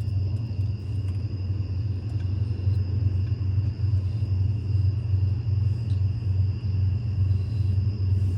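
A steady low rumble, with two faint steady high-pitched tones over it.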